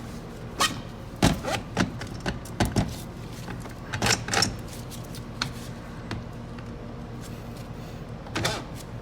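Metal automatic-transmission parts clinking and knocking as a clutch assembly is wiggled and rotated in the case to spline onto the outer sun gear. The knocks come in a cluster over the first three seconds, a few more around four seconds, and one near the end, over a steady low hum.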